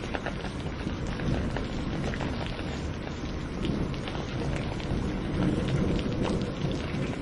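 Steady rain falling, with many individual drops ticking, over a low rumble of thunder that swells in the middle.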